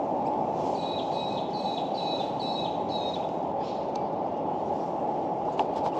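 A bird calls five short, high, repeated notes, about two a second, starting about a second in, over a steady low rushing background.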